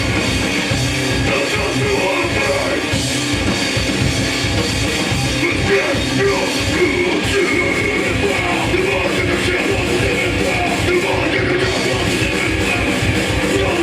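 A hardcore punk band playing live: distorted electric guitars, bass and fast drums, loud and dense, with shouted vocals over the top.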